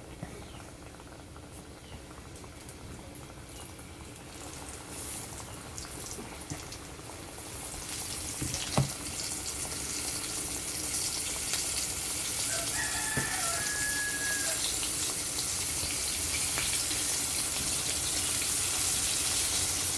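Floured chicken pieces frying in a pot of hot oil: the sizzle grows louder through the first half and then runs steady. There are a couple of sharp knocks, and a brief faint crow-like call about two-thirds in.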